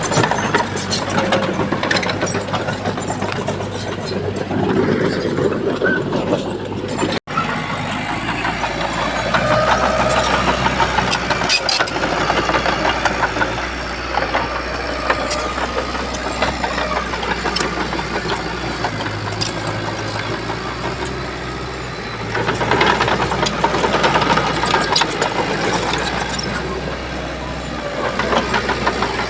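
Shantui bulldozer's diesel engine running and revving up under load, with rattling and clatter throughout. The sound drops out for an instant a little after seven seconds.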